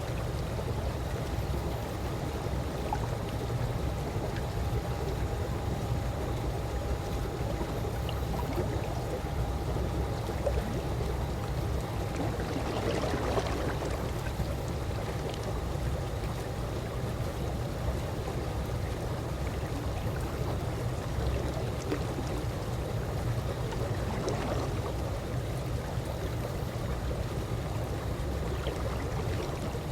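Calm pool water lapping and gurgling gently, with a low steady rumble beneath and a few brief swells of splashing, around 13 and 24 seconds in and near the end.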